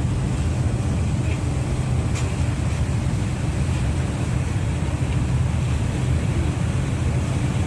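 A ferry's engines running with a steady low drone.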